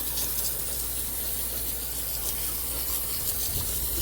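Water pouring steadily into a container of dusty quail feed to soak it for fermenting.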